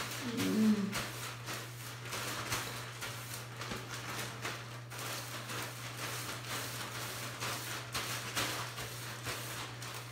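Hair being brushed with a bristle brush: repeated soft swishing strokes, about two a second, over a steady low hum.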